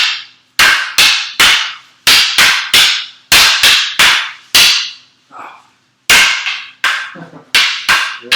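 Escrima sticks clacking against each other in a fast Heaven 6 double-stick drill: sharp, loud strikes about two to three a second, with a brief break just past the middle before the rhythm picks up again.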